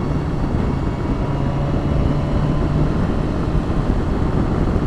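Motorcycle running at a steady road speed, its engine tone under a dense rush of wind and road noise.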